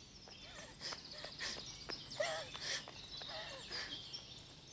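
Faint birdsong: several birds giving short chirps and brief whistles over a low background hiss.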